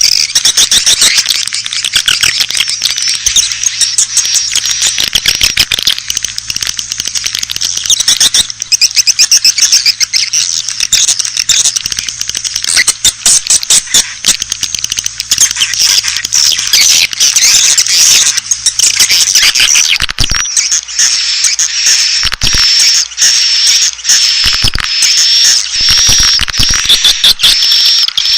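Swiftlet call recording of the kind played to lure swiftlets into a nest house: dense, rapid twittering and chattering chirps. From about two-thirds of the way through, a steady high trill runs through them.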